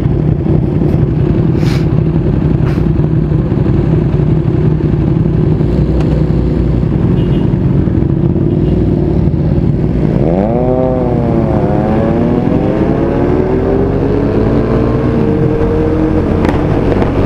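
Bajaj Dominar 400's single-cylinder engine idling at a stop, then pulling away about ten seconds in: the revs climb sharply, dip briefly at an upshift, then climb steadily through the next gear.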